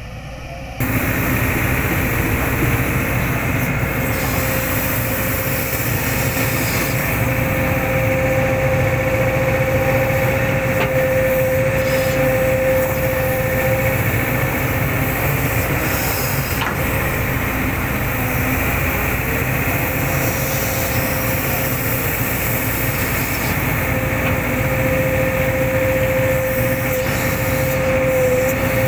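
Hitachi hydraulic excavator running steadily with its diesel engine, a steady whine sitting over the engine noise. It comes in suddenly about a second in.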